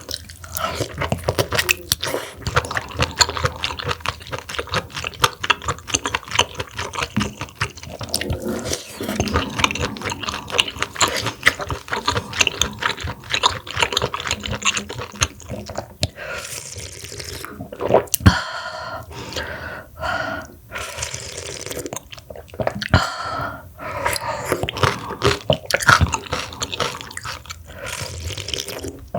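Close-miked wet chewing and mouth sounds of eating large mussels: irregular moist smacks and clicks.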